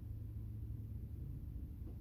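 A steady low hum with a faint overtone above it, and a brief faint rising tone just before the end.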